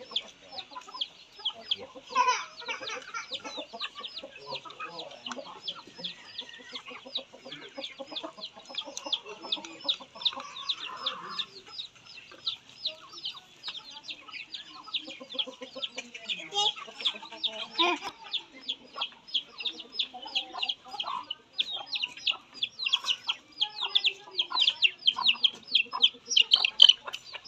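A group of young chicks peeping: an unbroken run of short, high, downward-sliding cheeps, several a second, with softer low sounds underneath.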